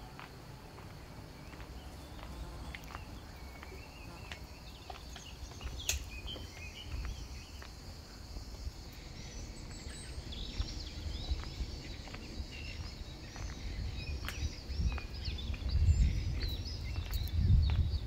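Small birds chirping, many short, quick calls that grow busier in the second half, over a low rumble that gets louder near the end.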